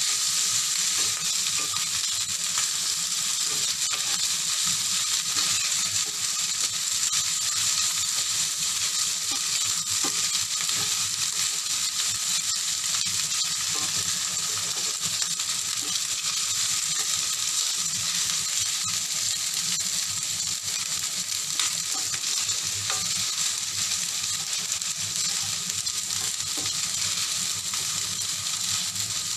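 Fried rice with diced pork and ham luncheon meat and mixed vegetables sizzling steadily in hot oil in a pan, with a wooden spatula stirring and scraping through it in faint scattered ticks.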